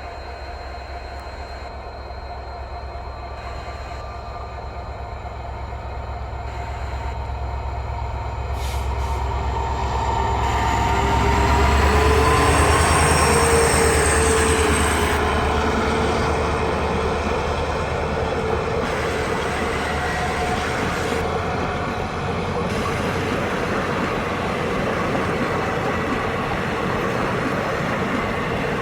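WDP4D diesel locomotive approaching and passing, its engine rumble building to the loudest point about twelve seconds in. After that, a steady roll of coaches passing, with wheel squeal.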